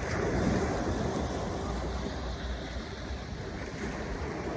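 Steady outdoor wind and wave noise, with a low rumble.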